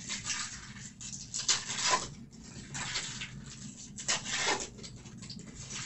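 Trading cards and pack wrappers being handled: a series of short rustling, sliding swishes.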